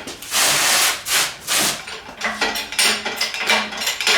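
Hand-pumping the hydraulic ram of a shop engine hoist: a long rasping stroke in the first second, then a run of short, evenly repeated creaking strokes.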